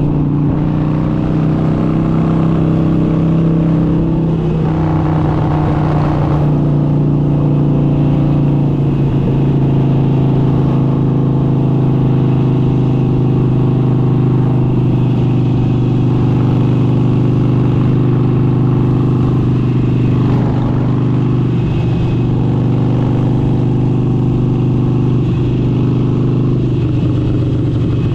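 Harley-Davidson Forty-Eight's air-cooled 1200 cc V-twin engine running steadily through an aftermarket exhaust, its pitch easing down a little about five seconds in, then holding even.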